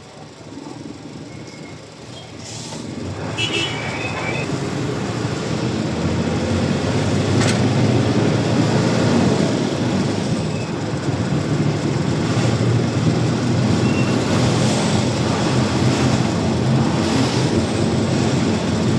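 Truck running on the road: a low rumble of engine and road noise that is fairly quiet for the first couple of seconds, grows louder over the next few seconds, then holds steady and loud.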